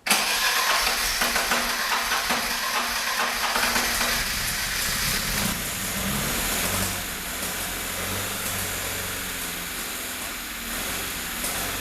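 Freshly rebuilt Lada 2103 inline-four engine running on its first start after the rebuild. It runs loud and uneven for the first few seconds, then settles to a steadier, slightly quieter run.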